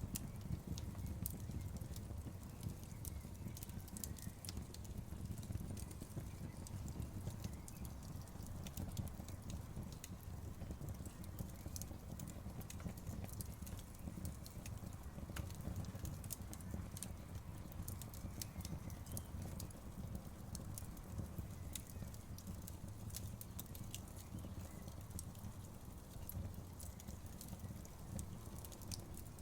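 Campfire crackling: a steady low rumble of burning wood with many sharp pops and snaps.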